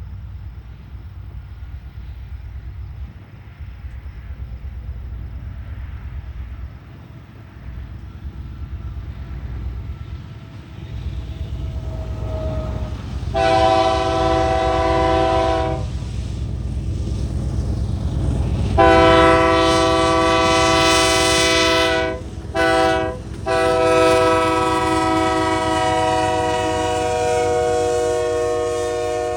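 CPKC freight train approaching with a building low rumble, then its locomotive horn blowing four blasts, long, long, short, long, the standard warning for a grade crossing. The last long blast runs on and dips slightly in pitch as the locomotive passes.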